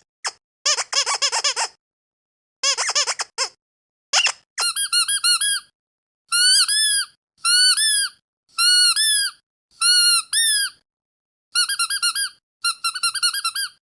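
Squeaky dog toy squeezed over and over in quick bursts of squeaks with short pauses between. From about a third of the way in, each squeak rises and falls in pitch.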